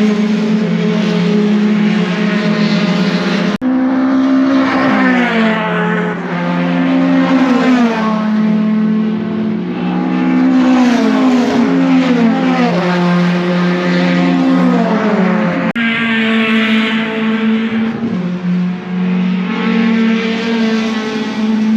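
Racing pickup truck engines at full throttle. The pitch climbs and then drops back at each upshift, several times in a row, over a steady engine drone, and the sound changes abruptly twice, at the video's cuts.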